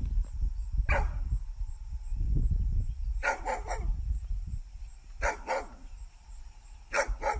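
A dog barking in short clusters of one to three barks, about eight barks in all, spaced a second or two apart, over a low rumble.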